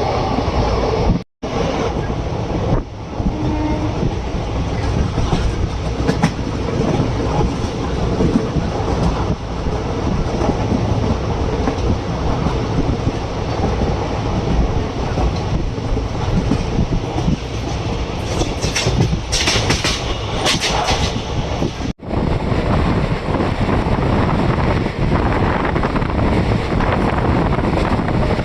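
Passenger express train running along the track, heard from aboard a coach: a steady rumble with wheels clacking over the rail joints. The sound drops out briefly twice.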